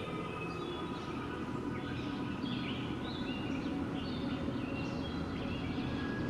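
Steady low wind noise with birds chirping over it, many short calls following one another throughout.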